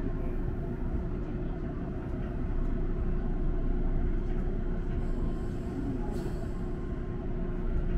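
Electric train on the Hakone Tozan line running slowly, heard from inside the front cab: a steady rumble of wheels on rail and running gear with a faint steady hum, and a brief hiss about six seconds in.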